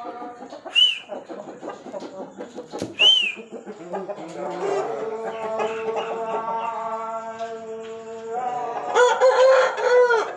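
Aseel rooster crowing: a long, drawn-out crow, rising at first, then held, and louder toward the end, with two short sharp chirps earlier on.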